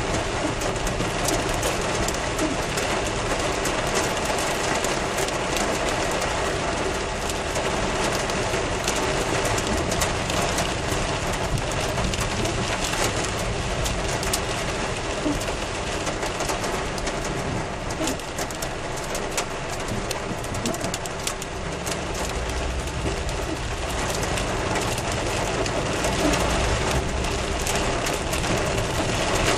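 Heavy rain falling steadily, thick with the patter of many individual hits. A low rumble swells underneath about two-thirds of the way through.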